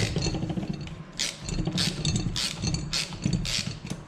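Socket ratchet worked back and forth on a tight cylinder head bolt of a Yamaha YZ85 engine, giving a short burst of clicks about every half second over a low rumble.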